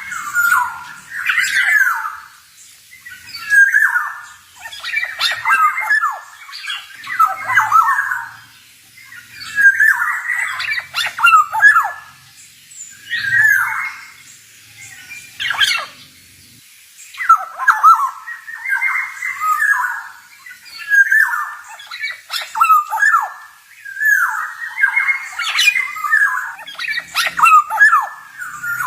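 Male black-naped oriole singing: short whistled phrases with quick pitch glides, repeated every couple of seconds with brief pauses between them.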